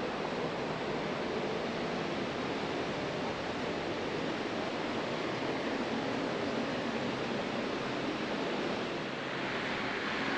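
Steady, even rushing hiss of background noise with no distinct events.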